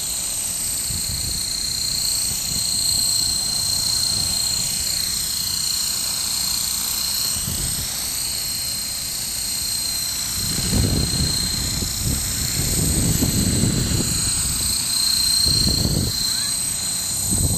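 Brushless-motored micro RC helicopter (a modified Esky Honey Bee King 2) in flight, giving a steady high-pitched whine from motor, gears and rotors whose pitch wavers slightly as it manoeuvres. Bursts of low rumble come and go from about ten seconds in.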